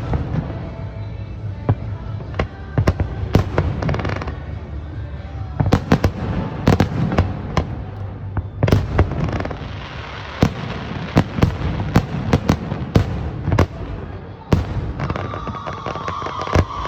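Fireworks going off: a dense, irregular string of sharp bangs and crackles over a continuous low rumble of booms, with clusters of louder reports throughout.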